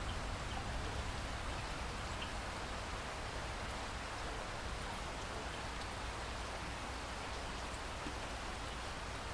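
Steady rain falling, an even hiss with a few faint drop ticks over a low steady rumble.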